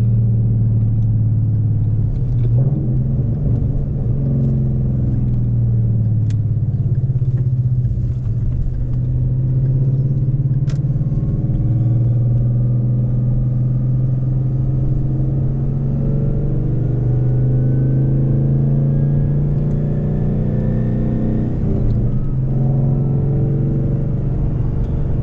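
Ford Mustang 5.0 V8 running through a muffler-delete exhaust with straight-through resonators: a steady low exhaust rumble while driving, the note shifting briefly about two and a half seconds in and again near the end. A faint thin whine rises slowly through the middle.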